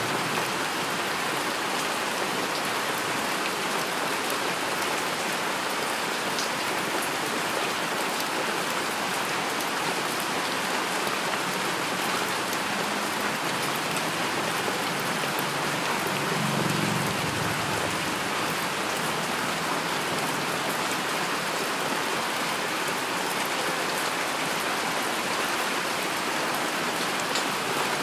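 Heavy rain falling steadily, a dense even hiss of drops. A brief low rumble comes a little past halfway.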